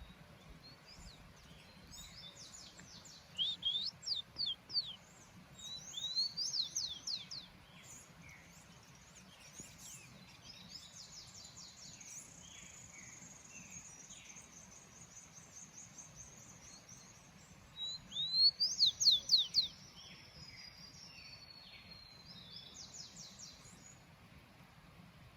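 Small songbirds singing in several separate phrases of quick, high, sweeping notes, the loudest burst about three quarters of the way through, with a long thin high note held for several seconds in between.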